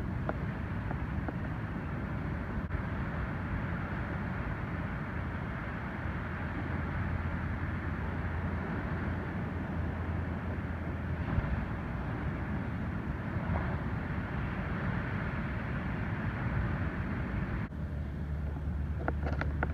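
Ocean surf rolling in and breaking on the beach, a steady wash of noise, with wind rumbling on the microphone. The waves are typhoon swell starting to arrive.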